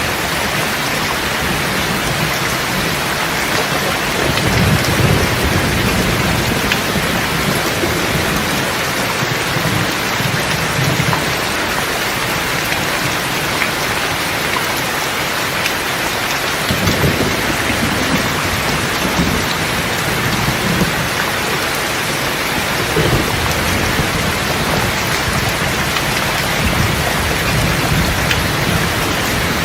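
Steady heavy rainfall with rolls of distant thunder rumbling low underneath, swelling several times, about four seconds in, around the middle and later on.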